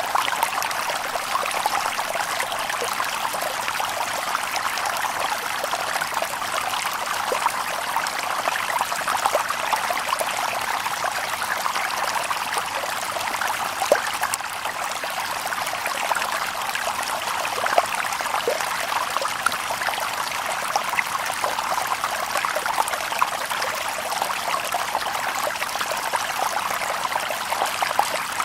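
Shallow stream babbling over stones: a steady run of small splashes and gurgles, with the water sound strongest in the mid range.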